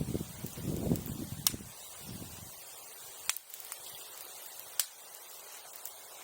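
Bonfire burning, with three sharp pops from the burning wood, each a second and a half or so apart. A low rumble fills the first two seconds or so.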